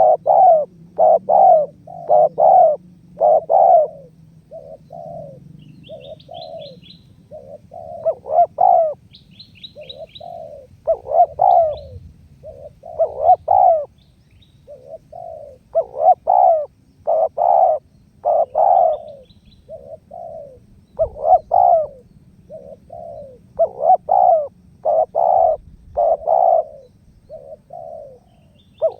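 Spotted dove (tekukur) cooing over and over in phrases of several short notes, the menguku call. A small bird's quick, high, faint chirps come in now and then.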